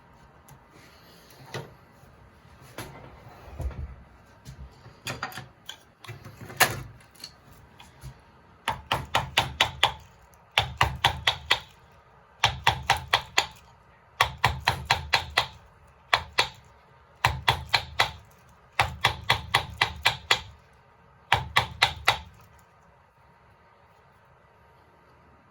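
Carving tools working wood: a few scattered knocks and cuts, then from about 8 s in, repeated bursts of six to eight quick sharp taps, each burst about a second long and coming roughly every 1.7 s, stopping near the end.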